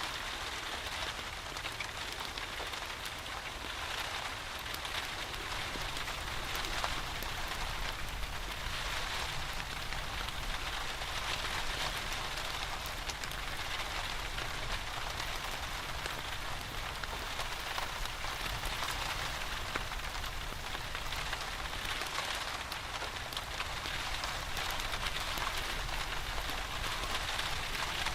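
Steady rain falling, an even hiss with scattered faint ticks of drops, over a steady low rumble.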